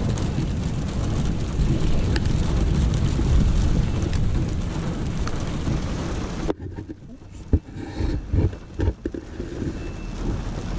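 Heavy rain with a low rumble of thunder, heard from inside a vehicle. About six and a half seconds in, the sound drops suddenly to a quieter, muffled hush broken by a few knocks.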